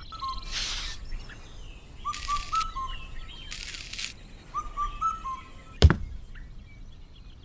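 A bird singing a short phrase of chirps, repeated about every two and a half seconds, over bursts of rustling hiss. A single sharp knock lands about six seconds in.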